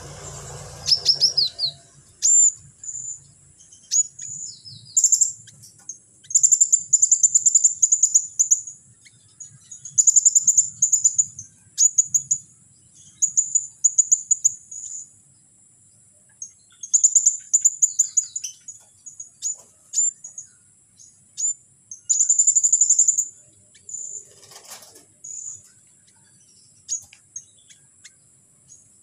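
Caged songbird singing trotolan: bursts of very fast, high-pitched trilled notes, each lasting up to about two seconds, with short pauses between them, over a faint steady high whine.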